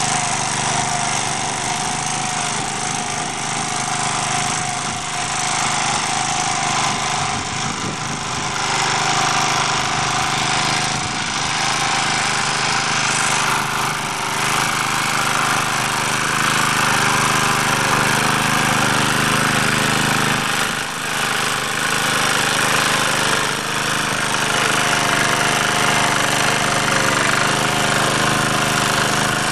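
Engine of an MD3 walk-behind tractor running steadily while its rotary tiller works the soil in first gear, with small dips in level now and then.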